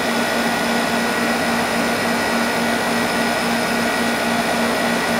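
2002 Whirlpool 5,000 BTU window air conditioner running steadily with its compressor on and cooling: an even rush of fan air over a steady hum.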